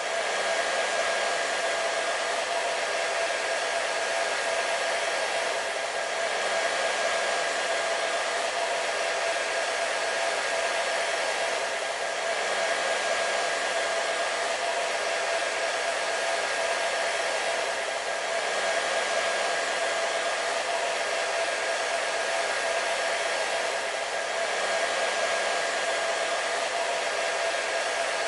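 Hair dryer running steadily: a constant rush of blown air with a steady motor whine through it.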